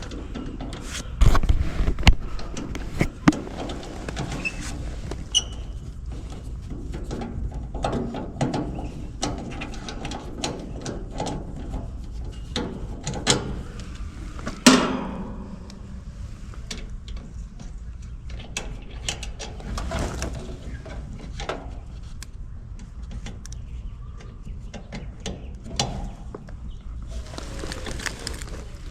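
Hands-on work on an air-conditioning condenser unit: scattered clicks, taps and small metal knocks as tools and fittings are handled. About halfway through there is one sharper metal clank that rings briefly.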